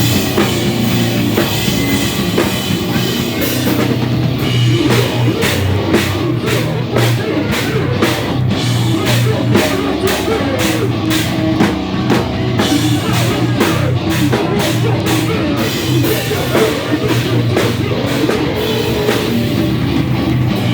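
A live rock band playing, with drum kit and guitar; through the middle the drums strike on a steady beat about twice a second.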